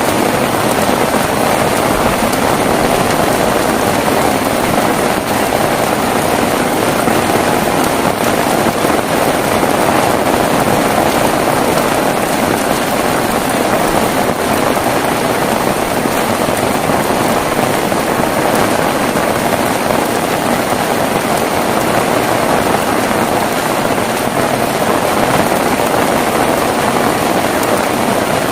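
Heavy rain falling steadily, a constant even hiss of downpour with no thunder.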